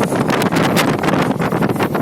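Wind buffeting the microphone over the noise of a moving passenger train, a loud, steady rush with irregular gusts.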